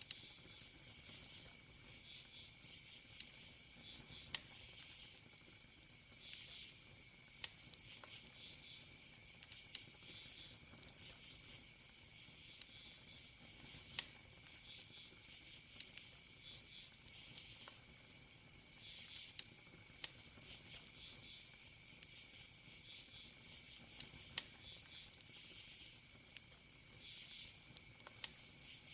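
Wood campfire crackling, with irregular sharp pops, a few much louder than the rest, over crickets chirping in recurring bursts above a steady high insect drone.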